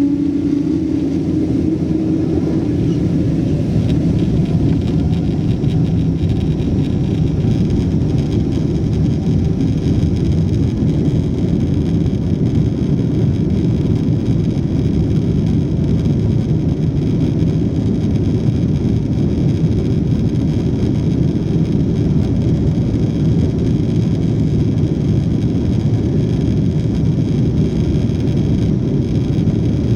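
Boeing 777-200 jet engines and rushing air heard from inside the cabin: a loud, steady, low rumble at high power.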